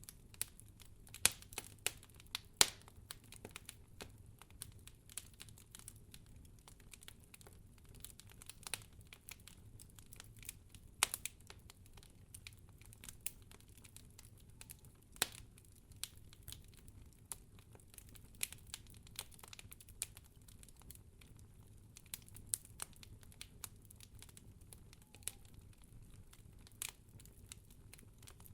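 Wood fire crackling: irregular sharp pops and snaps, a few much louder than the rest, over a low steady rumble.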